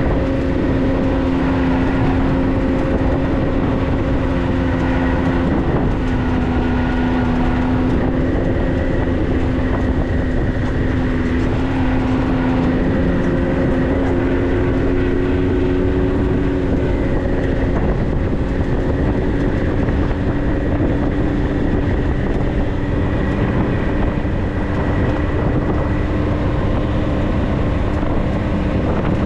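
4x4's engine running steadily while driving along a dirt trail, its hum drifting slightly up and down in pitch over a constant rumble of tyres and drivetrain.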